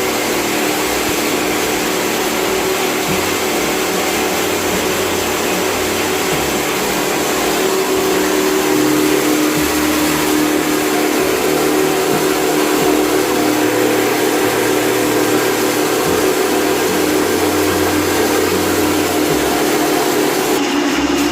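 Electric sewing machine motor running with a steady whine, its low hum coming and going every few seconds as stitching starts and pauses.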